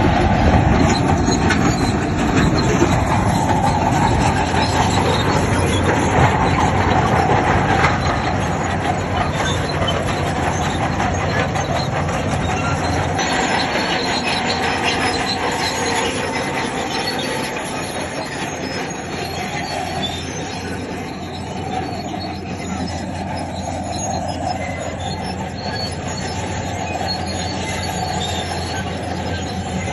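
Crawler bulldozer at work, its steel tracks squealing and clanking over the diesel engine's steady running as it pushes stone fill. It is loudest for the first several seconds, then eases a little.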